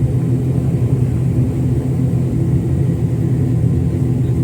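An airliner's engines running steadily before takeoff, heard inside the passenger cabin as an even, low drone.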